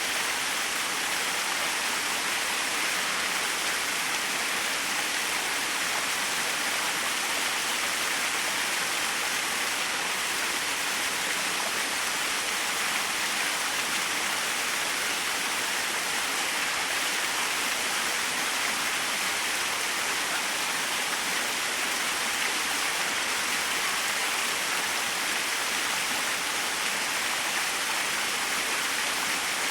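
Small waterfall: a steady, unbroken rush of falling water, with a hiss strongest in the upper range.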